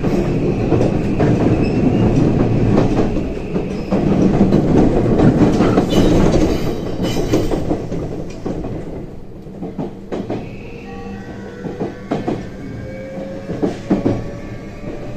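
JR West 323 series electric train running, heard from inside the car: steady wheel-and-rail rumble with rail-joint clacks. The rumble eases about halfway through, and a faint whine of the Mitsubishi full-SiC VVVF traction inverter comes in near the end.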